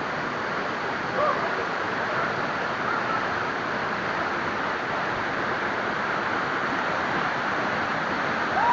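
Waterfall's steady rushing of falling water, an even roar that holds a constant level.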